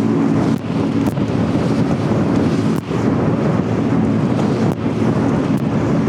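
Strong wind buffeting the microphone on the open deck of a tour boat in choppy water, over the low rumble of the boat and the waves.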